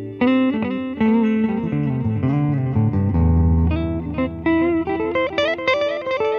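Clean electric guitar, a PRS 513 through a Fender Deluxe Reverb amp, playing a run of single plucked notes through a Boss DD-7 digital delay in its long delay mode, the many repeats overlapping and staying clean. A low note sounds about three seconds in, and the line climbs higher near the end.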